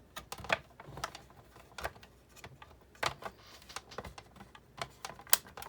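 Irregular clicks and clacks of the parts of a Big Shot die-cutting machine being handled and fitted together during reassembly. The sharpest click comes a little after five seconds in.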